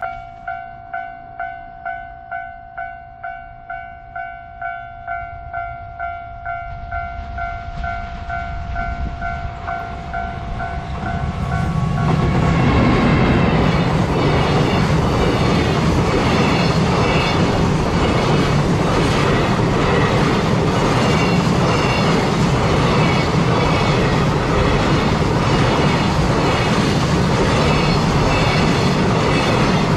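Japanese level-crossing warning bell ringing about twice a second. From about twelve seconds in, a freight train hauled by an EF210 electric locomotive passes: a loud steady rumble with rhythmic wheel clatter over the rail joints that drowns out the bell.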